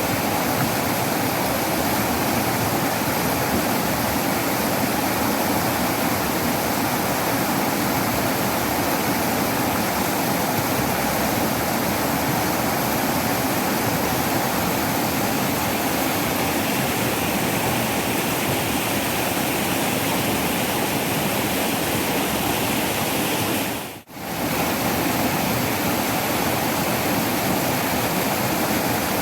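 Waterfall rushing steadily. The sound dips out for a split second about four-fifths of the way through.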